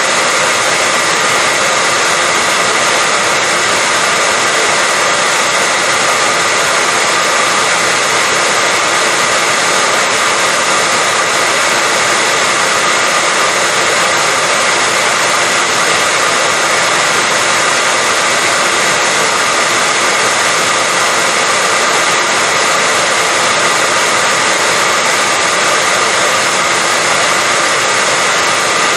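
Electric hair dryer running continuously at a steady pitch, a loud even whoosh of blown air with a faint motor hum on top.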